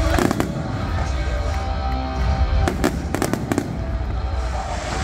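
Fireworks display: aerial shells bursting with sharp bangs, one just after the start and a quick run of about five in the middle, over a continuous deep rumble from the barrage.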